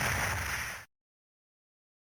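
Dice Saber toy's electronic 'Saber Strike' attack sound effect: a loud noisy blast that cuts off suddenly a little under a second in.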